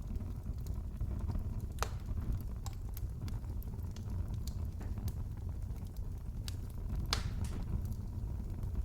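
Fireplace fire crackling: irregular snaps and pops over a steady low rumble, with two louder pops, one about two seconds in and one about seven seconds in.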